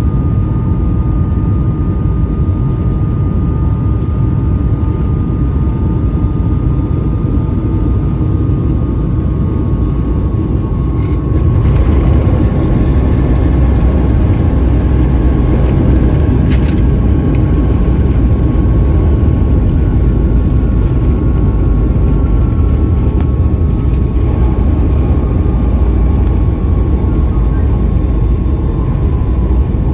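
Boeing 757-200 cabin noise: a steady low rumble from the engines and airflow, with a thin whine that drifts slightly lower. The rumble steps up in loudness about eleven seconds in.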